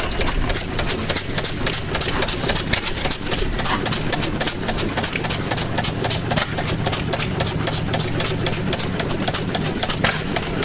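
Antique gas engine running steadily with a fast, even exhaust beat.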